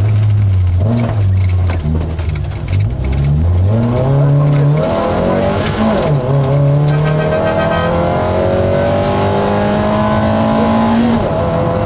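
MG F's mid-mounted engine heard from inside the cabin, driven hard on a rally stage. The revs climb, fall back about six seconds in, then climb slowly and steadily before dropping sharply at a gear change near the end.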